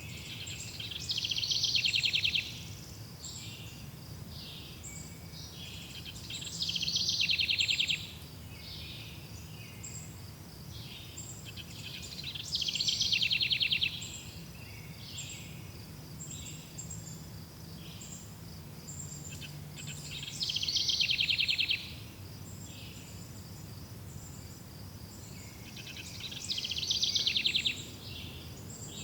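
Forest songbird repeating a loud, fast trilled song phrase about every six seconds, five times, over a background of fainter scattered bird chirps and a steady insect-like hiss.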